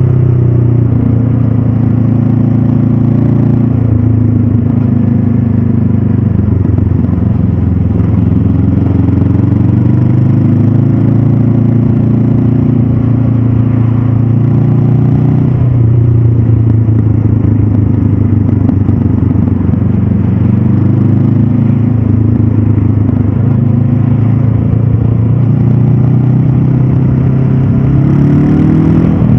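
Stock 2022 Honda CB500F's parallel-twin engine running on the move, its pitch holding fairly steady with gentle rises and falls, then climbing near the end as the bike accelerates.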